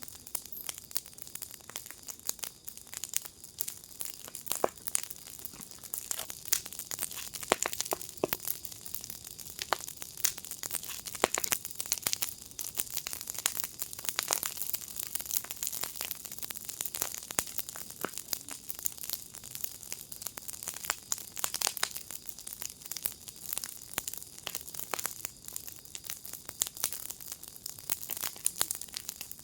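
Wood fire in a firepit crackling steadily, with dense irregular pops and snaps over a soft hiss.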